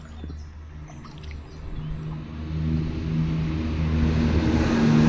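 A motor vehicle's engine with a steady low hum, growing steadily louder as it approaches.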